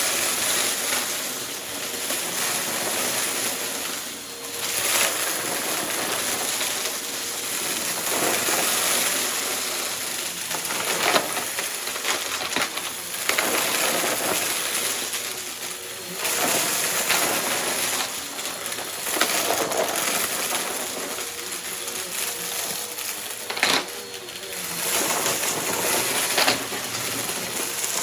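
Upright vacuum cleaner running over carpet, with debris from a mess test crunching and rattling up through it. The level swells and dips every few seconds as it is pushed back and forth.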